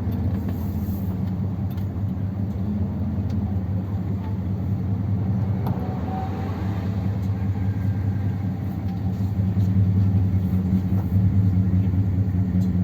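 1957 Ford Thunderbird's V8 engine running steadily, its original four-barrel carburettor working on the two primary barrels only with the secondaries blanked off; it gets a little louder for the last few seconds.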